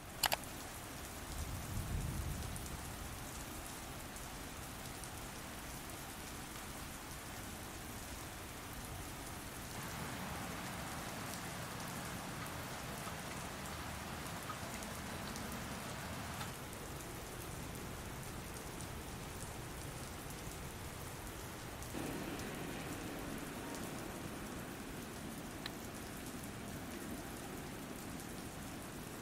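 Steady rain falling, an even hiss with no music or voice. Its tone changes abruptly a few times, around ten, sixteen and twenty-two seconds in.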